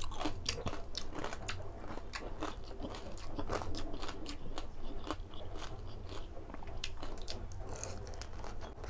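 Close-up mouth sounds of chewing crispy deep-fried pork belly (lechon kawali), its crackling skin giving many sharp crunches one after another. Near the end comes a bite into a fresh piece.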